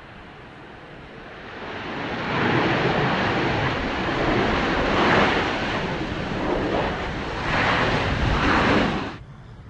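Airbus A320-200 jet airliner's engine roar swelling as it passes on landing, with surges of noise, then cutting off suddenly near the end.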